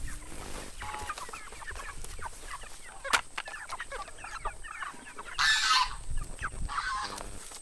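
A flock of chickens clucking and chirping all through, with a louder harsh call about halfway through and a sharp click a little before it.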